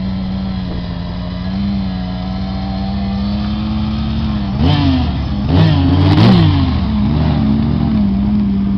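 Off-road trial 4x4's engine running steadily under load as it climbs a steep muddy slope. A little past halfway it is revved hard three times in quick succession, rising and falling each time, then settles back to a steady pull.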